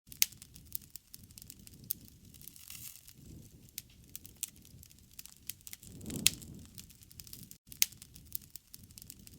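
Wood fire crackling, with sharp snaps scattered through it over a low soft rush that swells and fades every few seconds.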